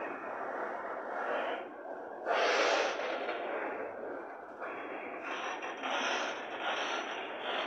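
Freight train wagons rolling past on the track: a steady rushing noise of wheels on rail, with a louder surge about two and a half seconds in and a faint high squeal near the end.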